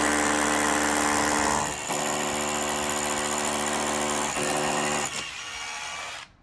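Hammer drill in hammer-and-drill mode boring a 1/4-inch pilot hole through a brick wall: the motor's steady whine with the noise of the hammering bit. It drops in level about five seconds in and stops just before the end.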